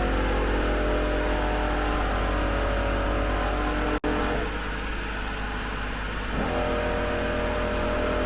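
Air compressor running steadily, inflating the tyres through a Morrflate manifold toward its 40 psi set point. The sound cuts out abruptly about four seconds in, then comes back slightly changed for a couple of seconds before steadying again.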